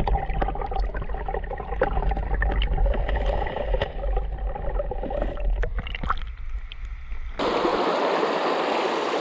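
Low rumble with scattered knocks and clicks. About seven seconds in, it cuts abruptly to the steady rush of flowing river water.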